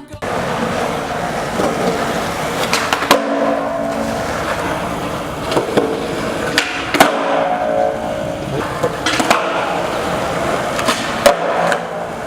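Skateboard wheels rolling on concrete with several sharp clacks of the board's deck hitting the ground during tricks and landings.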